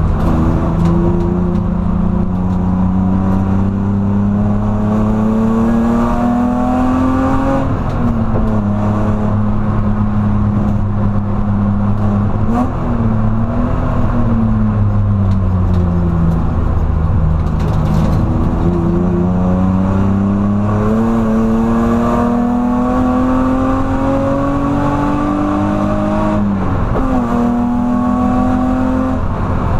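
BMW E46 330Ci's 3.0-litre straight-six engine under load on track, heard from inside the stripped cabin. The engine note climbs steadily as the car accelerates, drops sharply at a gear change about seven seconds in, falls away in the middle as the driver comes off the power, then climbs again, with another sharp drop near the end.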